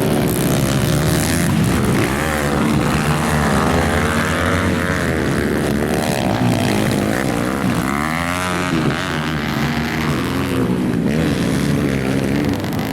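Several motocross bikes racing, their engines revving up and dropping back in overlapping rising and falling pitches.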